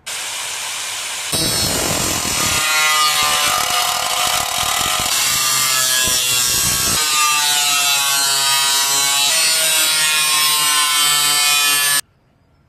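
Cutoff wheel or grinder cutting into the thin sheet-metal shell of an exhaust muffler. It starts with a hiss, gets louder after about a second and a half as the wheel bites, its whine dipping and rising under load, then stops abruptly.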